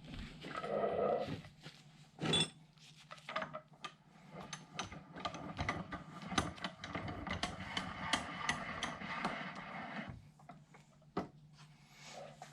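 Metal clicks and knocks of a new universal joint being handled and fitted into a drive shaft yoke, with one sharper knock about two seconds in and many small clinks after it.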